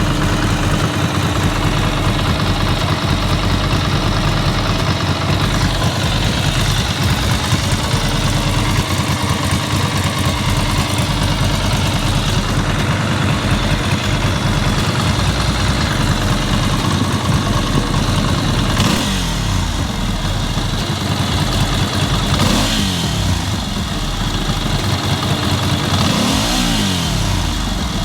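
Ducati Monster S2R 800's air-cooled two-valve L-twin engine idling while still warming up, revved briefly three times in the second half. The owner puts the extraneous noise from the motor down to a worn timing belt bearing.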